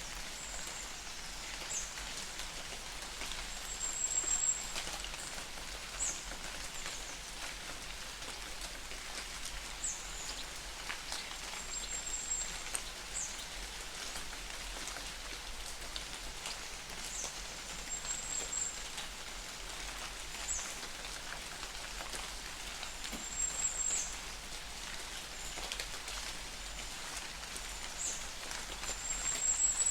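Light, steady rain falling in a forest, with short, high, thin chirps every couple of seconds.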